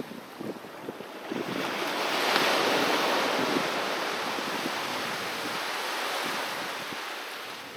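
Sea waves on a beach: a wave breaks, swelling to its loudest about two and a half seconds in and washing back slowly, with small crackling splashes of water before it.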